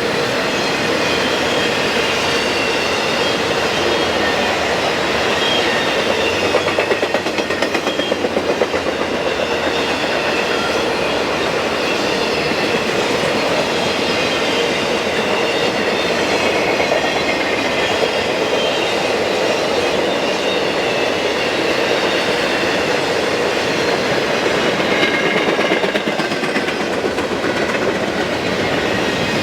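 Railroad cars rolling steadily past at close range, their wheels clicking over the rail joints, with faint high wheel squeal.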